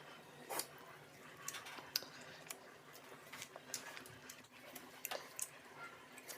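Faint eating sounds: scattered, irregular light clicks and taps of spoons against plates, with chewing mouth noises.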